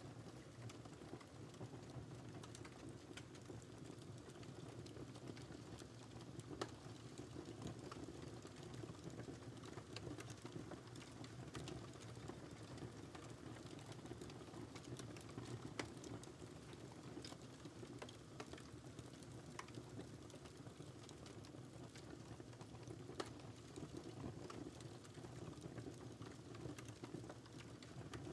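Wood fire crackling in a fireplace: a soft steady rumble of the flames with frequent small irregular crackles and a few sharper pops.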